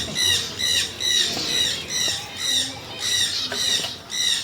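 Small birds chirping, a steady run of short high calls about three a second.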